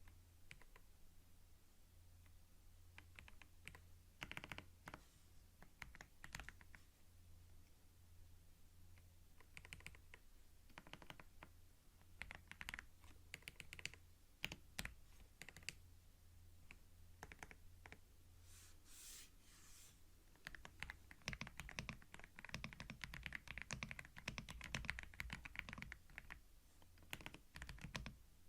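Computer keyboard typing, close-miked: scattered keystrokes at first, then quick, continuous typing for the last third.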